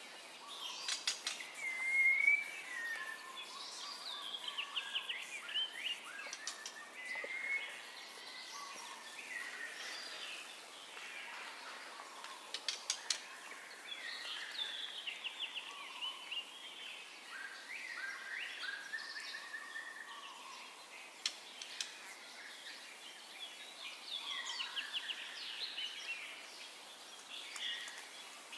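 White-rumped shama (murai batu) singing a long, varied run of whistled phrases, rapid trills and sharp clicking notes over a steady hiss.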